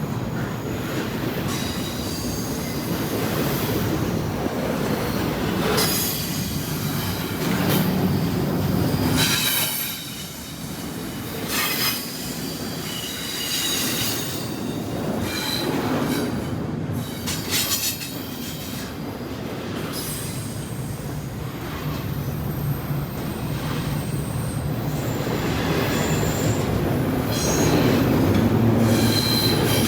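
Freight train rolling past, its wheels squealing in high tones that come and go over the steady noise of the passing cars.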